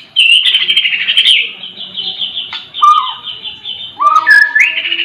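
Several songbirds chirping and singing at once in fast, overlapping trills. A lower whistled note comes about three seconds in, and another about four seconds in.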